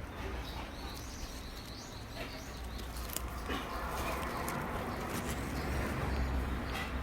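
Birds calling with short chirps over a steady low rumble.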